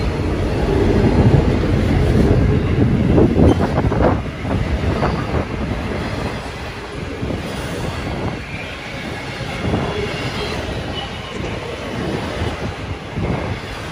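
Intermodal freight train's container wagons rolling past close by: a steady rumble of steel wheels on rail with clicks as the wheels cross rail joints, loudest in the first few seconds, then somewhat quieter, with faint wheel squeal in the second half.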